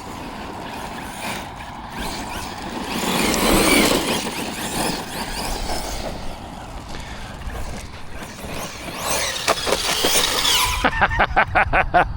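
Arrma Notorious 6S electric RC monster truck driving over dirt: its brushless motor whines up and down with the throttle over the rush of tyres on loose ground. Near the end comes a quick run of short pulses, about eight a second.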